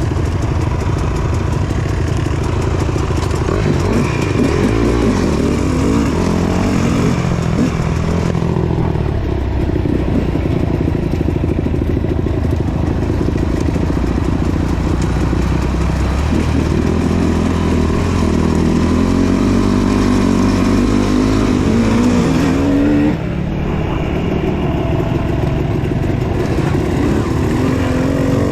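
Dirt bike engine running under varying throttle while being ridden, its pitch rising and falling. It climbs steadily for several seconds past the middle, then drops abruptly near the end.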